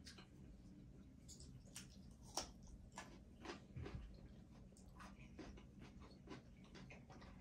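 Faint chewing and small clicks of eating, with a sharper click about two and a half seconds in.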